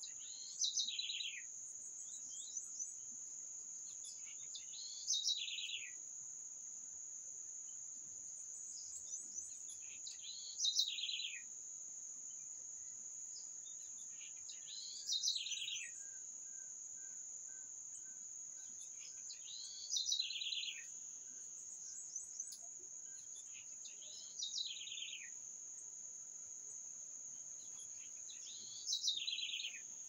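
A songbird repeats the same short phrase, a quick stepped trill that falls from high to lower pitch, about every four to five seconds, seven times. Under it runs a steady high-pitched insect drone, and a faint series of soft, evenly spaced notes sounds for several seconds in the middle.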